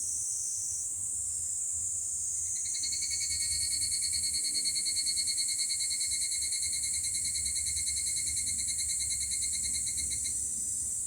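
A calling animal's fast pulsing trill, steady in pitch, starting about two and a half seconds in and cutting off suddenly near the end, over a steady high hiss.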